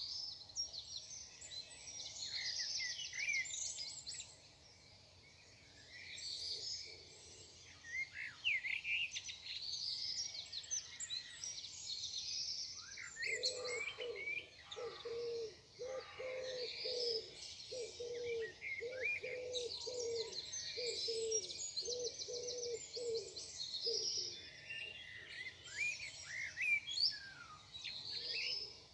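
Morning bird chorus of several small songbirds chirping and trilling. From about halfway through, for some ten seconds, a low cooing note repeats about twice a second.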